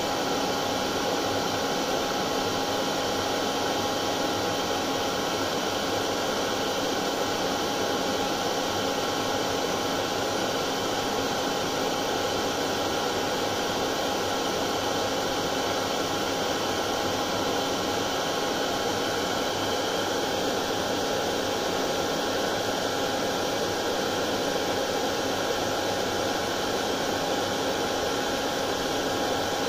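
Hair dryer running steadily on one setting: a constant rushing of air with a steady motor whine, unchanging throughout.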